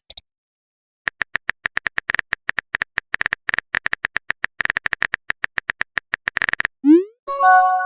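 Phone-chat typing sound effect: quick, irregular keyboard-like clicks for about six seconds, then a short rising whoosh and a brief chime as a message is sent.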